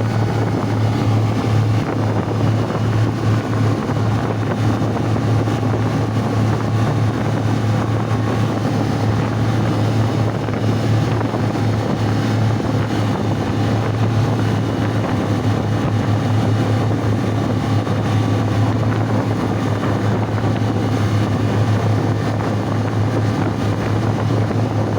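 A ship's engine running with a steady low drone that does not change, with wind rushing on the microphone.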